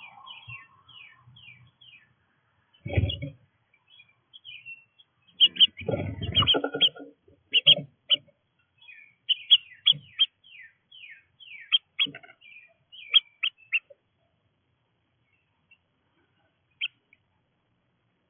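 Small birds at a feeder chirping in quick, short notes that fall in pitch, many in a row, with two louder low thumps about 3 and 6 seconds in. The chirping thins to a few notes near the end.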